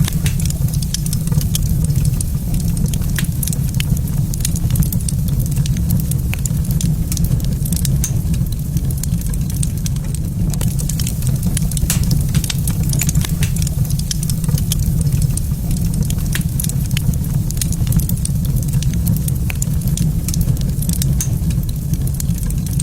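Wood fire in a fireplace crackling, with many quick sharp pops over a steady low rumble.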